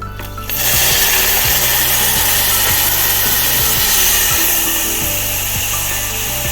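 Sugar in a hot pan sizzling loudly as a little water goes in for caramel, starting suddenly about half a second in and easing slightly near the end.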